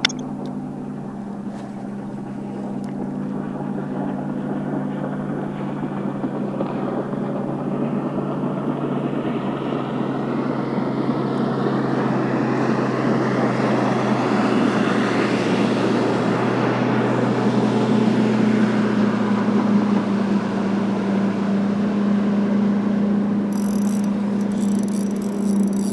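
Bass boat's outboard engine running under way, growing gradually louder, with a rush of wind and water over it; the engine hum steps up and holds steadier about two-thirds of the way through.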